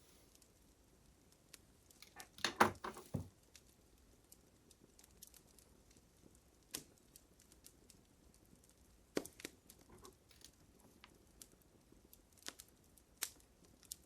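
Fire crackling faintly: scattered sharp pops and snaps, with a dense run of crackles about two and a half seconds in, the loudest moment.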